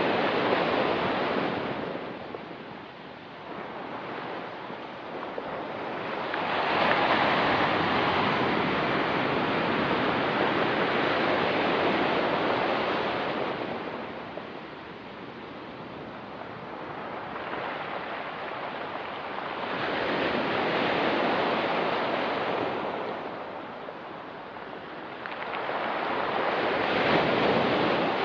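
Ocean waves breaking and washing up a rocky shore, the surf swelling and fading in slow surges every six to seven seconds, with some wind on the microphone.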